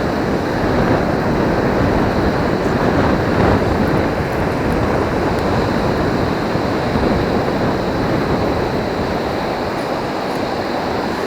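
Steady rush of breaking surf and wash, with wind buffeting the microphone.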